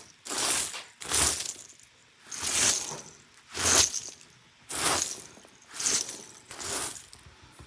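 Dry crunch mix being shaken out of a container onto the floor: seven rattling, pouring shakes, about one a second.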